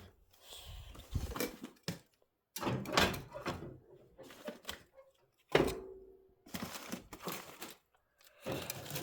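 A series of separate knocks and thunks from things being handled and set down. The sharpest one comes about halfway through and is followed by a short ringing tone.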